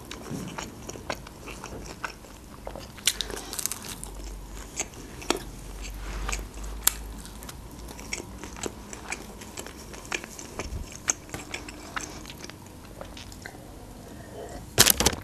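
Eating sounds of a woman biting and chewing papadias, a crusty folded pizza flatbread, with many small crunchy clicks and wet mouth sounds. Near the end come a louder cluster of sounds as she drinks cola from a glass.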